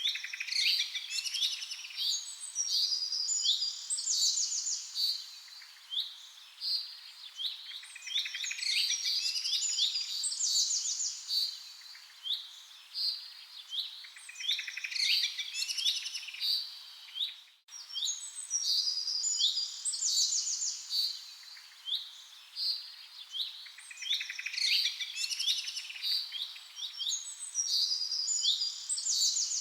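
Several songbirds chirping and singing in quick, overlapping phrases of high chirps and trills. The same pattern of calls repeats every few seconds, as in a looped recording, and cuts out for a moment a little past halfway.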